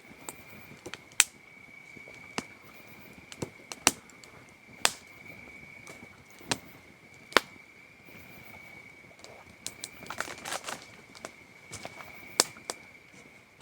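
Wood campfire crackling, with sharp pops at irregular intervals and a denser run of crackles about ten seconds in, over a steady high trill of crickets.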